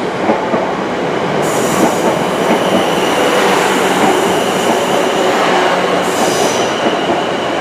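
Class 444 Desiro electric multiple unit passing slowly, a steady rumble of wheels on rail with high-pitched wheel squeal that comes and goes.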